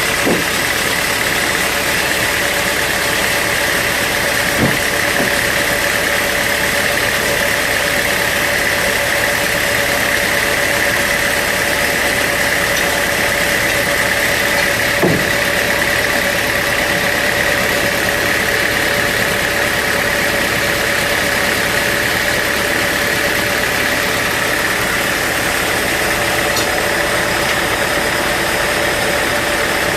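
Band sawmill running steadily, a constant machine drone with a steady high whine, broken by a few faint knocks.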